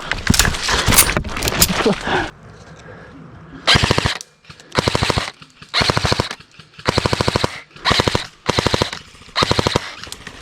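Airsoft gun firing on full auto in about seven short bursts, each half a second or so of very fast, even shots, starting almost four seconds in. A dense rattle comes before them in the first two seconds.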